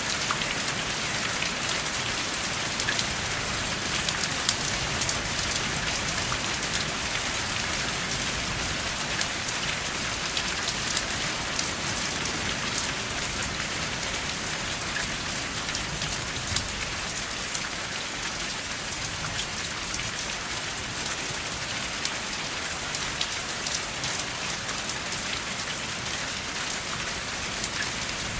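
Steady heavy rain with no thunder: an even hiss of rainfall with many individual drops ticking sharply through it.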